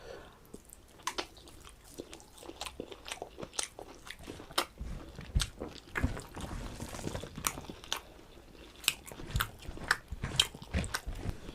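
Close-miked chewing of a mouthful of rice and mutton curry, with irregular wet clicks and smacks of the mouth.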